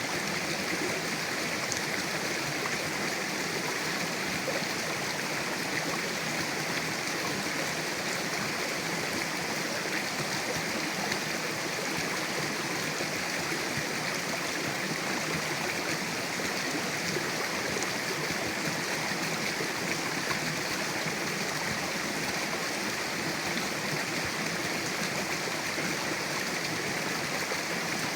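Mountain river flowing over rocks: a steady rush of water with a constant, unbroken level.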